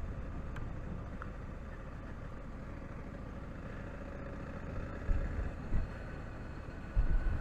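Honda Africa Twin DCT's parallel-twin engine running at low road speed, heard as a steady low rumble through a helmet-mounted action cam. A few louder low thumps come a little past the middle and again near the end.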